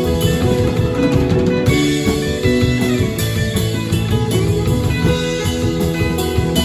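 Live rock band playing an instrumental passage without vocals: electric guitars over bass and drum kit, loud and continuous.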